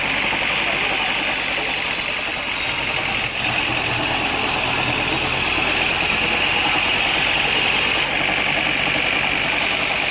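Sawmill machinery running steadily, with a constant engine-like drone.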